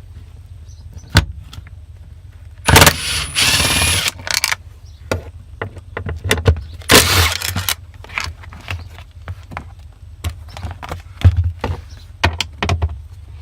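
Socket wrench and metal clicking and clinking as the 10 mm bolts on a BMW E46 fuel pump access cover are undone. There are scattered sharp clicks, plus two longer noisy bursts about three and seven seconds in.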